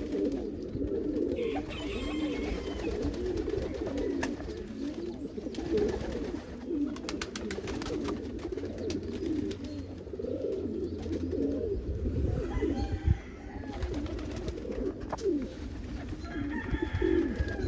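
A flock of domestic fancy pigeons cooing continuously in their loft, many overlapping calls, with a few brief higher chirps and light clicks among them.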